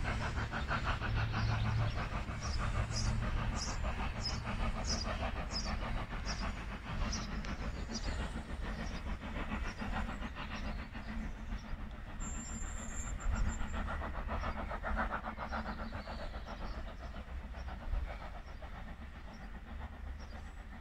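Heritage train working along the line with a steady rhythmic beat. There is a run of sharp ticks about twice a second early on, and the sound fades near the end as the train draws away.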